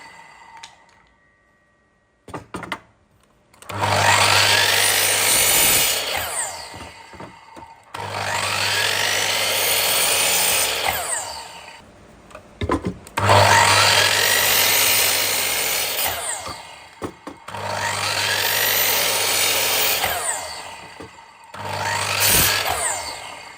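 An electric woodworking power tool works wood in repeated passes, about five of them, each lasting three to four seconds, starting a few seconds in.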